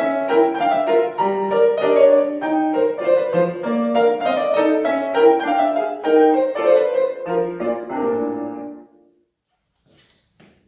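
Piano playing a classical piece in a quick run of separate notes; the final notes die away about nine seconds in, followed by a couple of faint knocks near the end.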